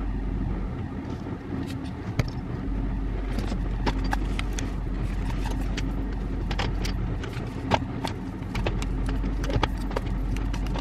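Dodge Charger's engine idling steadily, heard inside the cabin, with scattered sharp clicks and knocks from a tripod and phone being handled.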